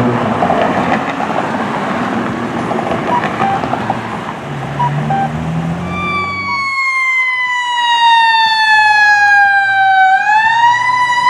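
Emergency vehicle engine and road noise, then about six seconds in a siren comes on loud in a slow wail, its pitch gliding down for several seconds and rising again near the end.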